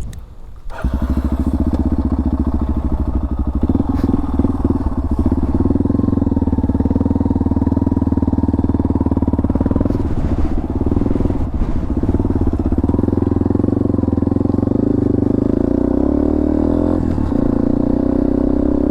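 Dirt bike engine running at a steady, nearly constant pitch, coming up loud about a second in.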